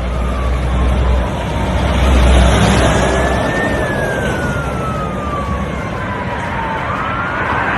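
Emergency-vehicle siren on a slow wail, rising and falling over several seconds, over loud road and engine noise. A heavy low rumble fills the first few seconds.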